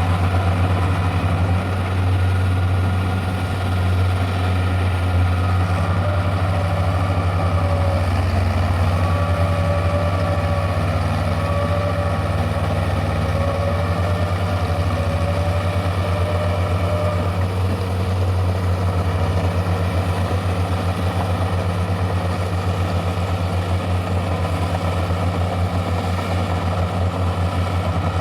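Tractor engine running steadily with a deep, even hum. Between about 8 and 17 seconds in, a fainter higher engine note wavers up and down.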